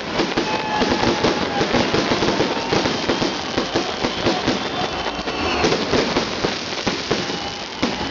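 Fireworks salute: a dense, continuous crackling of many small bursts going off in quick succession.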